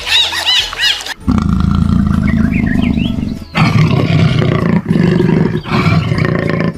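Big cat roaring in several long, deep bouts separated by brief pauses. In the first second, quick high chirping squeaks that cut off abruptly.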